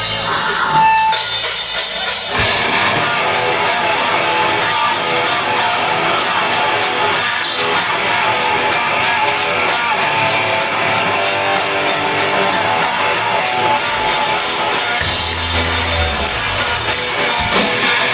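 Rock band playing live: electric guitar over a drum kit, with evenly spaced cymbal strokes about three a second from a couple of seconds in until near the end.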